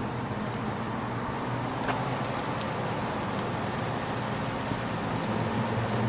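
2009 Rheem Classic R-410A heat pump outdoor unit running steadily: a low compressor hum under the even rush of the condenser fan.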